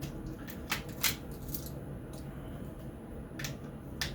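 A handful of short, sharp clicks and taps from handling small laptop parts during a teardown, spaced irregularly over a low steady background noise.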